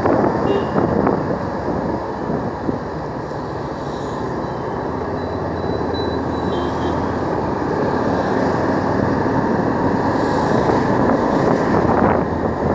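Bajaj Pulsar 180 motorcycle's single-cylinder engine running under way in traffic, with steady road and wind rush.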